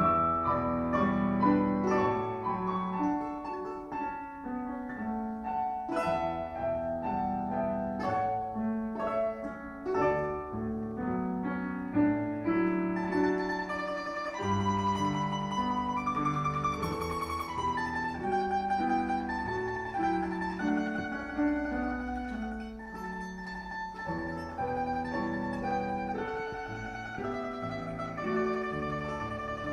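A domra, the Russian plucked-string instrument, playing a melody with piano accompaniment.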